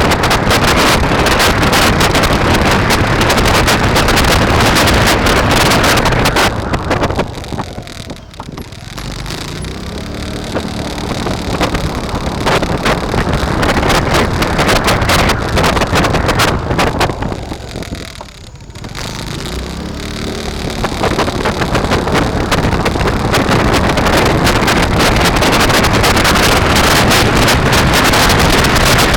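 Wind rushing over the microphone of a moving bike ride. It drops away twice, about a third and about two thirds of the way in, and a low pitched hum comes through briefly each time.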